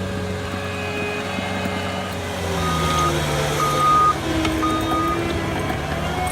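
A tractor's engine running under work while its reversing alarm beeps three times, evenly spaced about a second apart. The engine's pitch shifts about two seconds in as it works.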